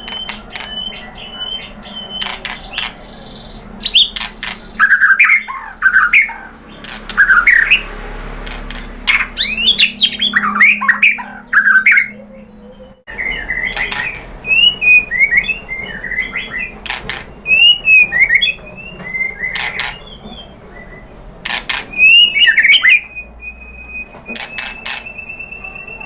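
White-rumped shama (murai batu) singing: loud, varied whistled phrases mixed with sharp clicks, with a short pause about halfway through and a long, thin, steady whistle near the end.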